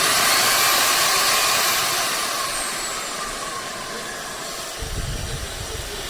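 Ultenic U16 Flex cordless stick vacuum running, a steady rush of air with a high whine that climbs at the start and slides back down about three seconds in. A low rumble joins near the end.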